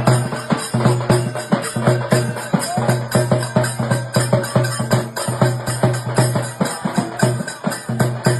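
Halgi, the Marathi frame drum, beaten fast with sticks in a driving folk rhythm: rapid, even strokes over a deep ringing drum tone.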